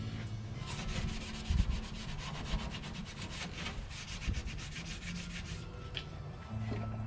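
Hand brush scrubbing the metal of a car's engine bay in quick back-and-forth strokes, about six a second, with a thump about a second and a half in. The scrubbing stops near the end.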